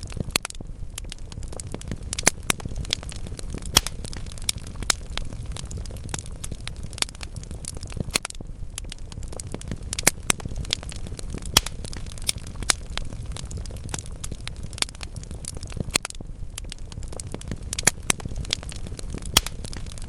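Wood fire burning in a fireplace: a steady low rumble of flames with constant crackling of the logs and a handful of louder pops scattered through.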